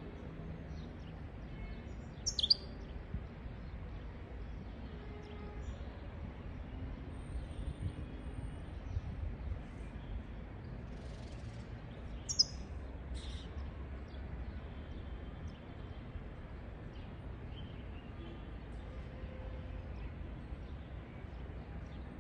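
European goldfinch giving two sharp, high calls about ten seconds apart, with a few fainter chirps and a thin high whistle between them, over a steady low background hum.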